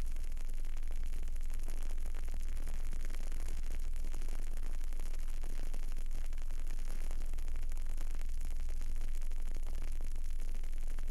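Burning candle, with faint fine crackling in an even hiss over a steady low hum.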